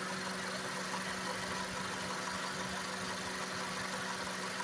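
2015 Honda CR-V engine idling steadily with the air conditioning running.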